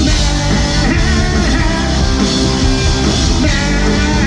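Live rock band playing loud, with electric guitar, bass and drum kit. A singer comes in on the sung word "man" near the end.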